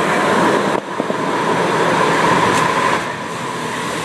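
Automatic car wash machinery running: a steady rushing of spray and air with a held whine, heard close up from the open bed of a pickup truck.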